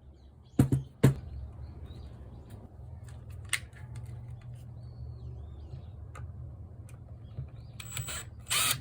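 Sharp clicks and knocks of small plastic and metal parts being handled during disassembly of a cordless angle grinder, two loud ones about a second in, over a low steady hum, with a short scraping rustle near the end.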